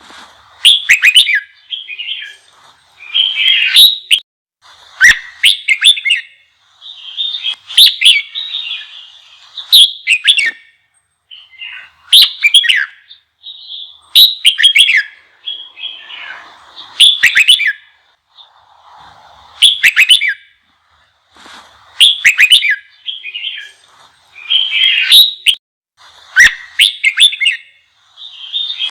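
Red-whiskered bulbul singing a heated, fiery song of short, loud, rapidly sweeping phrases repeated every second or two, the kind of song bird keepers play to provoke caged bulbuls into singing.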